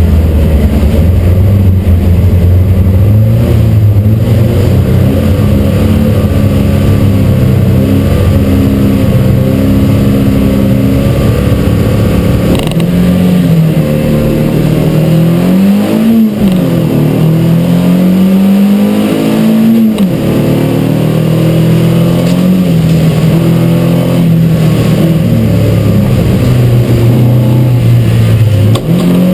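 Stock car engine heard from inside the cabin, running loud. Its pitch holds steady for stretches, then rises and falls several times around the middle as the throttle comes on and off.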